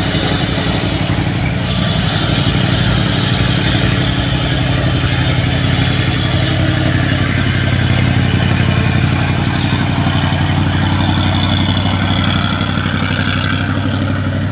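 Diesel truck engines running under load on a climb, a loud, steady low drone with no sudden changes.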